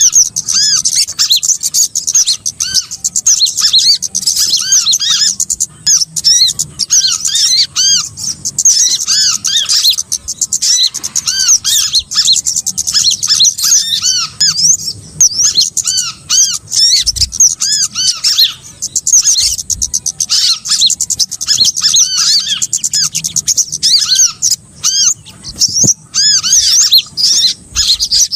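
Bird-luring recording of many small birds calling together: dense, overlapping rapid chirps and short arched high notes that never let up.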